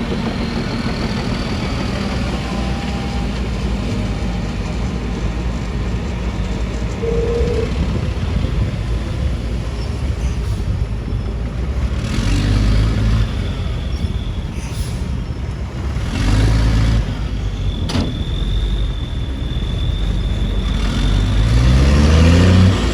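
Heavy construction machinery running steadily, with engines revving up about twelve and sixteen seconds in and again near the end. There is a sharp click about eighteen seconds in, and a thin high steady whine from about fourteen seconds on.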